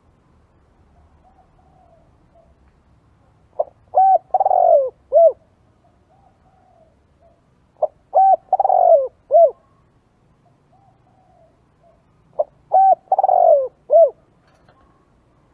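Spotted dove cooing its song three times, a phrase every four seconds or so. Each phrase is a short note, two strong coos, a longer falling croon and a closing coo. Fainter soft notes come between the phrases.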